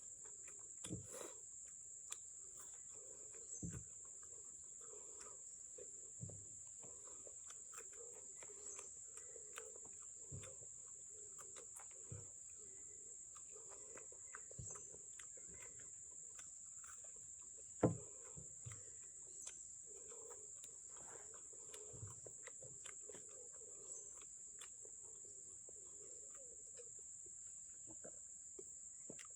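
Insects shrilling in one steady, unbroken high-pitched drone. Scattered soft clicks and knocks sound over it, the sharpest about eighteen seconds in.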